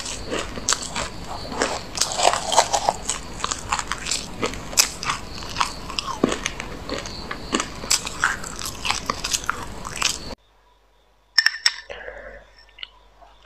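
Chewing a mouthful of white sesame seeds: dense, rapid crunching and crackling that cuts off abruptly about ten seconds in, followed by a few faint clicks.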